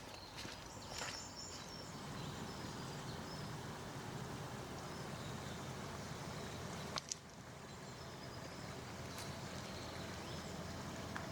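Outdoor forest ambience: a steady low rumble under faint, scattered high bird chirps, with a single sharp knock about seven seconds in.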